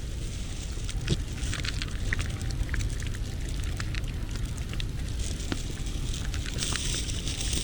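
Irregular crackling clicks over a low rumble of wind on the microphone; about six and a half seconds in, a steady hiss joins in.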